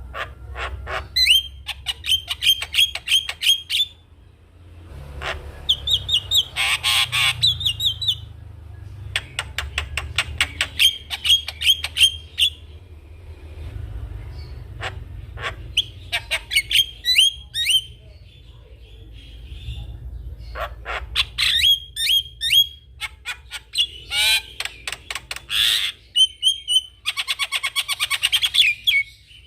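Javan myna (jalak kebo) singing: repeated bursts of rapid clicks and sharp chattering notes, each burst two to three seconds long, with short pauses between.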